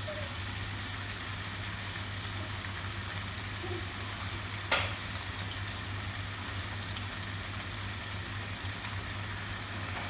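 Food sizzling steadily in a frying pan over a low steady hum, with one sharp click about halfway through.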